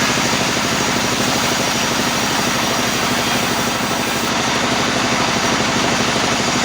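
Sawmill machinery running steadily: an engine-like drone with a dense hiss over it.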